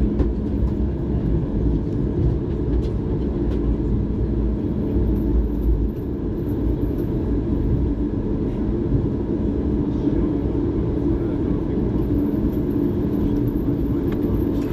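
Steady low rumble of a Boeing 737 airliner, heard from inside the cabin before take-off.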